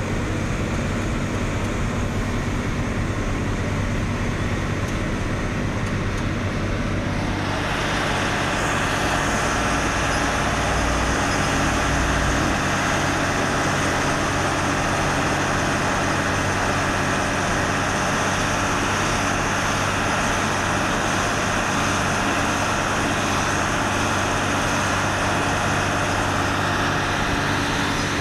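A truck on the move: a steady low engine drone under road and tyre noise. The noise grows louder and brighter about seven and a half seconds in.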